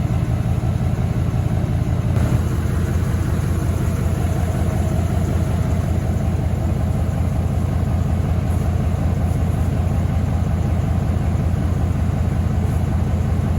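A vehicle engine running steadily at idle, with an even low pulsing.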